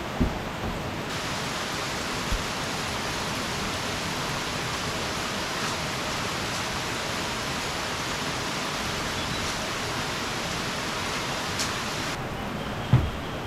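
Steady rush of a rain-swollen mountain stream running high, mixed with heavy rain. A few dull thumps, the loudest near the end.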